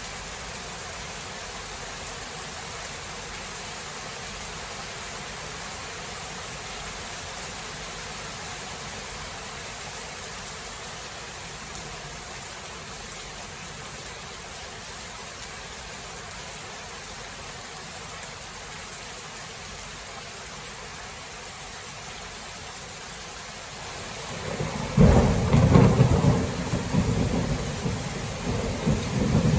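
Steady heavy rain hissing, then near the end a loud thunderclap that breaks into long rolling rumbles.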